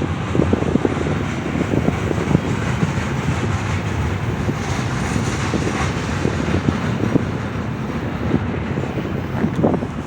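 Steady rumble of a Union Pacific train passing, with wind buffeting the microphone in irregular low thumps.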